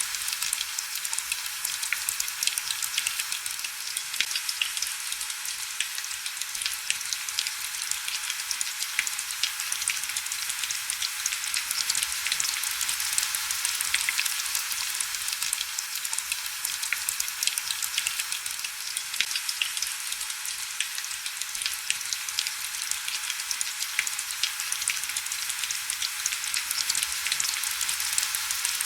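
Heavy rain falling steadily: a dense, even hiss full of fine crackling droplet ticks, with almost no low rumble.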